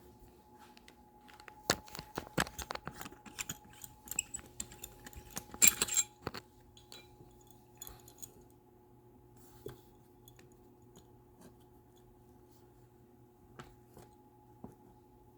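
Small clicks, clinks and rattles of a screwdriver and plastic highchair parts being handled as a strap is worked back through its slot, busiest in the first six seconds and then only scattered clicks. A faint steady hum runs underneath.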